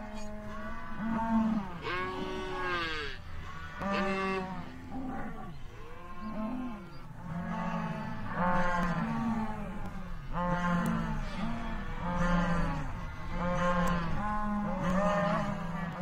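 A herd of cattle mooing, many calls overlapping one after another, louder in the second half.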